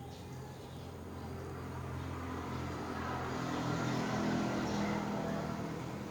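A motor vehicle passing by: its engine hum grows louder, peaks about four seconds in, then fades.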